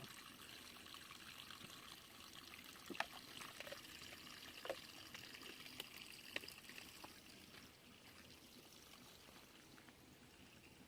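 Spring water trickling and splashing, faint and steady, with a few light clicks. It grows a little quieter about eight seconds in.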